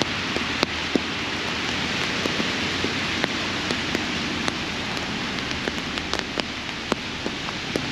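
Steady rain falling, an even hiss broken by frequent irregular sharp ticks of drops landing close by.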